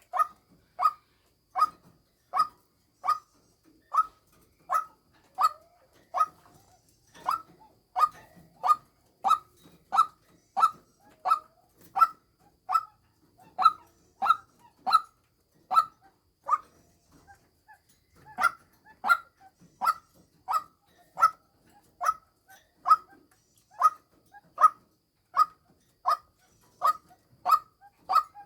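White-breasted waterhen calling, the sort of call played as a lure for waterhens: one short, harsh note repeated steadily about one and a half times a second, with a brief pause a little past the middle.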